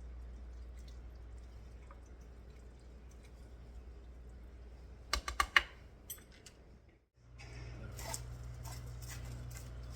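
Low steady hum with a quick run of about five sharp clicks about five seconds in. The sound cuts out briefly near seven seconds and comes back with a slightly different hum and a few faint clicks.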